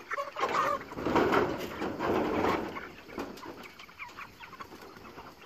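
Broiler chickens clucking in a pasture pen. About half a second in, a louder noisy rustle runs for roughly two seconds before the clucking goes on alone.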